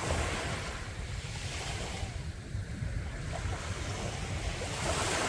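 Sea waves washing onto a beach, one surge of surf just after the start and another near the end. Under them is a steady low rumble of wind on the microphone.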